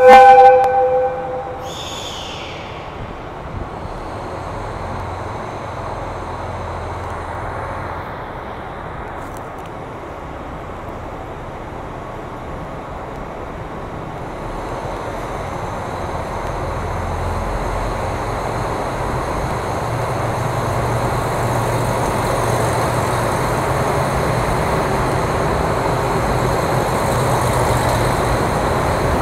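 KiHa 261 series diesel multiple unit sounding one short, loud horn blast at the very start, with a brief higher falling tone about two seconds in. After that its diesel engines and wheels run steadily as it rolls up to and past the platform, growing louder from about halfway.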